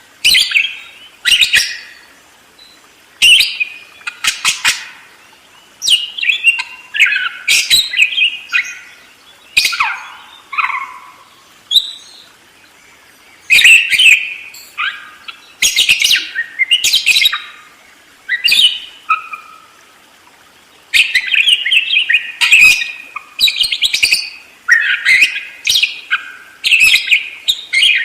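Budgerigar chattering and warbling in quick runs of chirps and squeaks with short pauses; the chatter grows denser in the last third.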